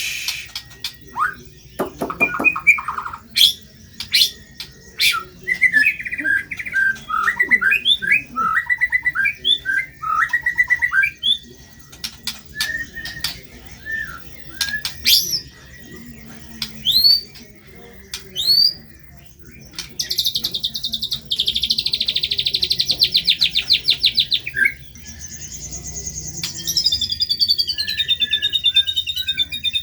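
White-rumped shama (murai batu) singing a loud, varied song: sharp rising whistles and warbled phrases, a rapid buzzing trill about two-thirds of the way through, then a falling run of warbles near the end.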